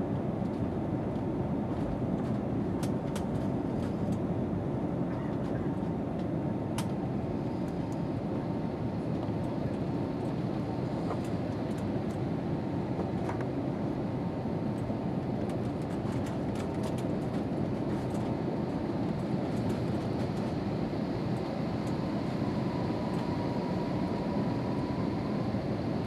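Steady jet engine and airflow rumble inside the cabin of an Airbus A320neo in flight, with a faint steady whine and a few light clicks.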